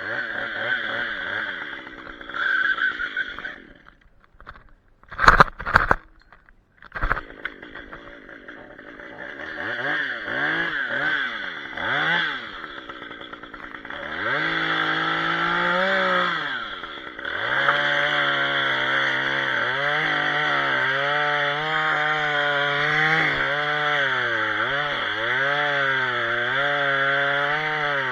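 Chainsaw running: revved in short rising and falling blips, with two sharp knocks about five and seven seconds in, then held at high speed from about halfway, its pitch dipping and recovering again and again as it cuts branches.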